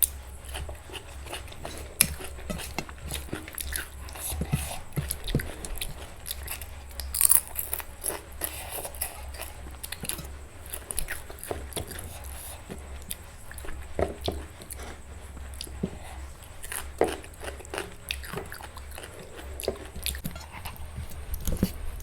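Close-miked eating of an Indian meal of khichdi with vegetable sides, salad and papad: steady chewing and biting, with many sharp crunching bites scattered through, the loudest about two seconds in and about seven seconds in.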